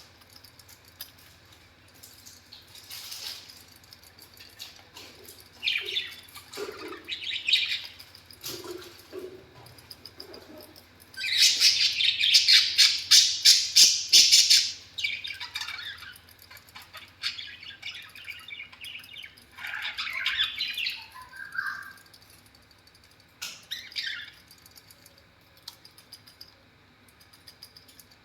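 Black-face budgerigar chirping and chattering in short spurts, with one loud stretch of rapid chatter about eleven seconds in that lasts some four seconds.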